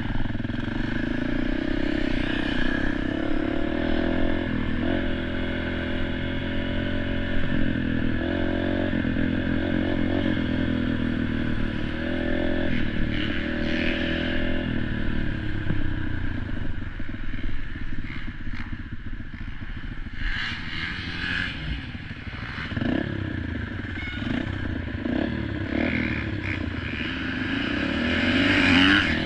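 Dirt bike engine running, holding steady for about fifteen seconds, then easing off and picking up again near the end.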